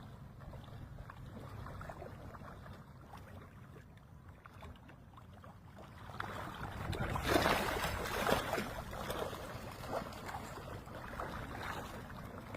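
Shallow water with a low wind rumble, then about seven seconds in a sudden rush of splashing as a school of big mullet breaks the surface. The splashing is loudest for a second or so and then goes on more faintly to the end.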